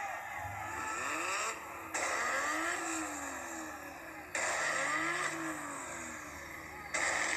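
Toyota Supra engine revving, its pitch climbing and falling back again and again, with sudden jumps in loudness roughly every two and a half seconds.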